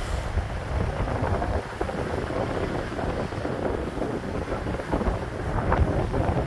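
Wind buffeting the microphone outdoors by the water, a steady low rumble that flickers up and down.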